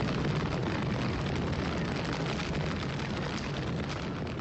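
Blazing-furnace fire sound effect: a steady roaring rush of noise with a low rumble and faint crackle, slowly getting quieter.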